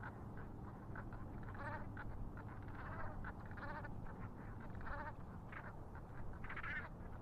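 Water birds calling: a busy chorus of short calls, with a few longer, louder pitched calls standing out, the loudest near the end.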